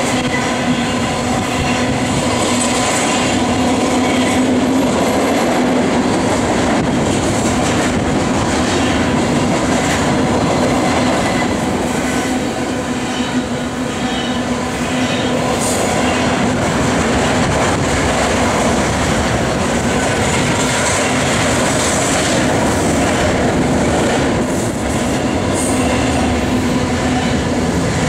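Long double-stack container freight train rolling past close by: a steady, continuous noise of its wheels running over the rails, with a faint steady tone underneath.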